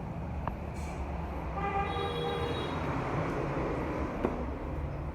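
A vehicle horn sounds once, a steady tone lasting about a second, over the steady low rumble of a running engine or passing traffic.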